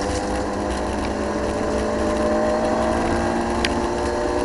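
Rally car engine heard from inside the cabin, pulling hard in one gear with its pitch rising slowly as the car accelerates. A single sharp tick comes near the end.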